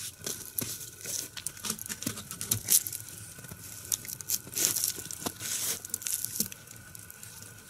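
Burning log fire crackling, with irregular sharp snaps and pops over a faint hiss.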